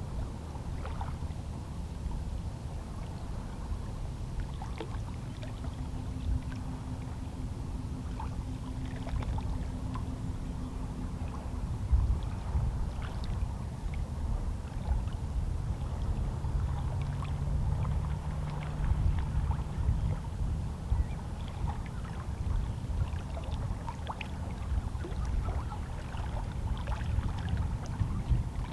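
Small, lazy sea waves lapping and sloshing against shoreline rocks, with many little splashes and gurgles.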